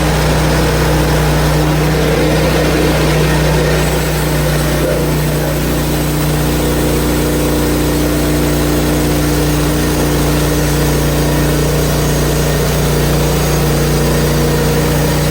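Portable band sawmill's engine running steadily at constant speed while the band blade saws through a maple log.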